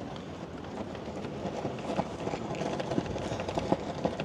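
Strong wind rumbling and buffeting against a DJI Mic 2 clip-on microphone in its fur wind muff, with irregular light knocks of walking footsteps.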